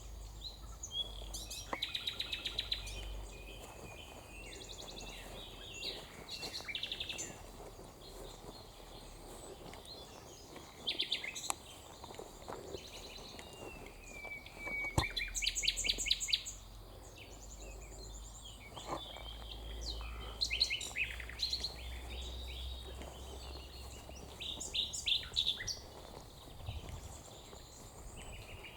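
Several songbirds singing and calling over one another, with warbled phrases and quick runs of repeated notes, over a low steady rumble.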